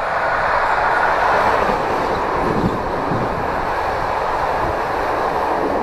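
Passenger train running along the track, heard from inside the carriage: a steady rushing noise of wheels on rails, with a brief low knock about two and a half seconds in.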